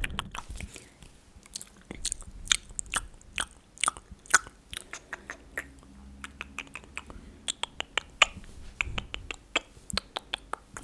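Fast ASMR tapping: many quick, crisp taps at an uneven pace, thinning out for a couple of seconds midway before picking up again.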